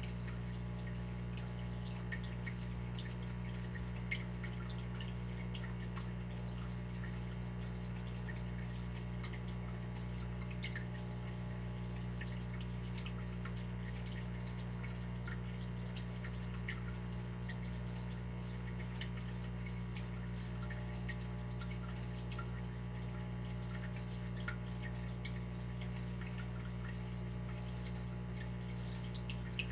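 Water dripping: many small, irregular drops ticking into water, over a steady low hum.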